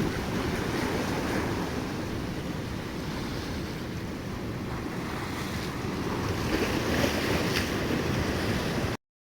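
Sea waves and wind buffeting the microphone, a steady rumble with a rising wash of surf late on; the sound cuts off abruptly near the end.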